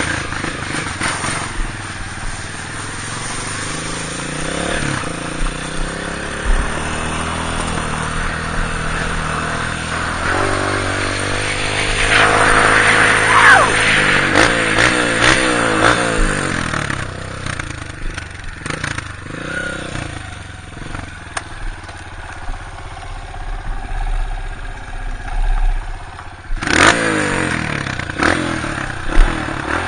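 Honda CRF230 dirt bike's single-cylinder four-stroke engine riding, revving up and down with its pitch rising and falling. There is a loud thump a little before the end.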